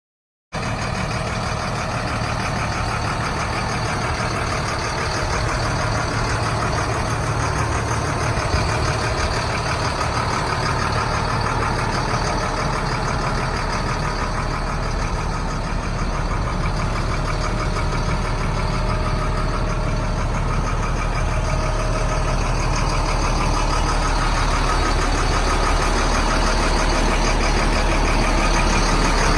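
Caterpillar 3116 turbo diesel engine of a 1994 Stewart & Stevenson M1078 truck idling steadily. The sound cuts in abruptly about half a second in.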